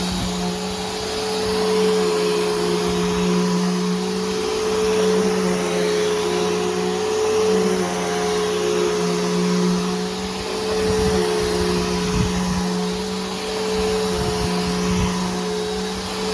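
Bissell Powerforce Helix Turbo upright vacuum cleaner running, fitted with a new brushroll and belt: a steady motor drone and hiss whose level rises and falls slowly.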